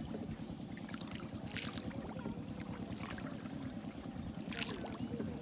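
Boat's motor running steadily with a fast, even low throb, with a few brief splashes of water about one and a half, three and four and a half seconds in.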